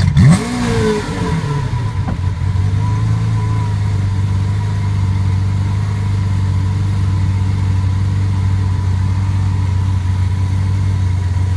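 Car engine blipped once sharply at the start, then settling into a steady idle.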